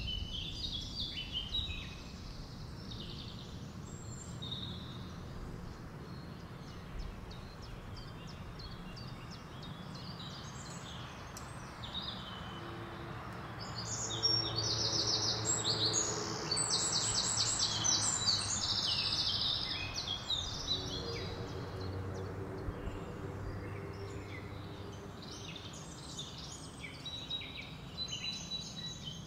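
Birds chirping and singing over a faint steady hiss, with a fast, louder trill from about halfway through that lasts several seconds.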